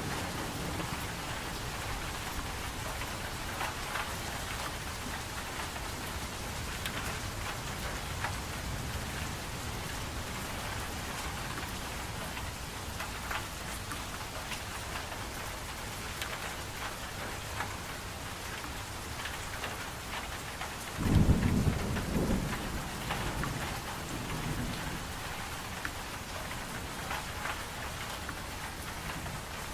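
Steady rain falling, with scattered patter of drops, and a low roll of thunder about two-thirds of the way through.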